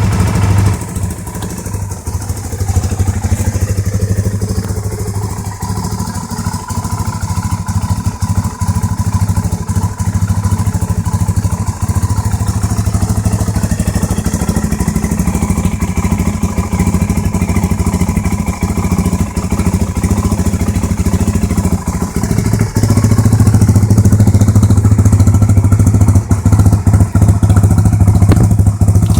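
Suzuki DR-Z400SM single-cylinder four-stroke engine idling through a Hindle header and a stock 2001 GSX-R1000 muffler, a steady exhaust note. It gets clearly louder about three quarters of the way through.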